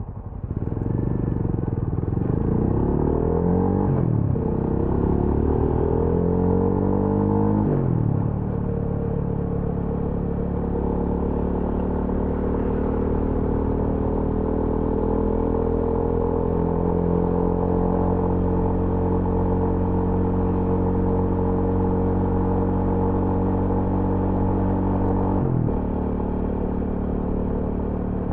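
TVS Apache RTR 200 4V's single-cylinder engine and exhaust under way: the pitch climbs twice in the first eight seconds, each climb ending in a sudden drop as it shifts up, then it holds a steady cruising note with a short dip near the end.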